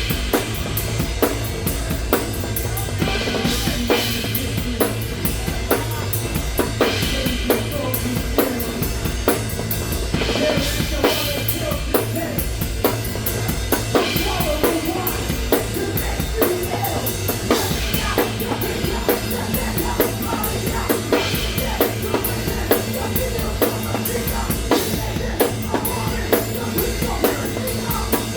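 A live rock band plays an instrumental passage, led by a drum kit with a fast, steady beat of bass drum and snare over a continuous bass line. Cymbal crashes land about every three and a half seconds.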